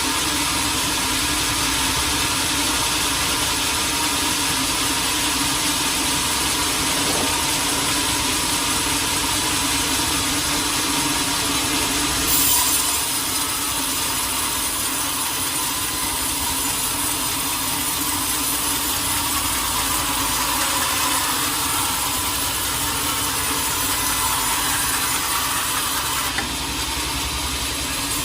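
Sawmill saw cutting through a large teak log: a steady, continuous cutting sound with a running motor underneath, briefly louder about twelve seconds in, and changing in character a couple of seconds before the end.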